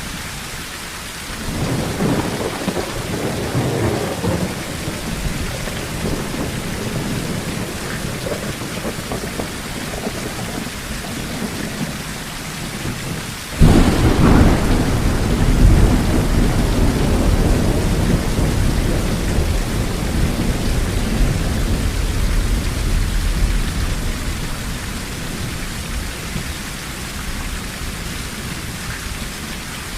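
Steady rain on a tin roof with thunder: a rumble starts about a second and a half in, then a sudden loud thunderclap about halfway through rolls on and slowly fades over the next ten seconds.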